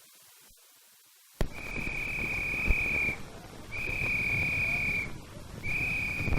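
Near silence for about a second and a half, then three long blasts of a single high steady tone, each over a second long with short gaps between, over a low rumble.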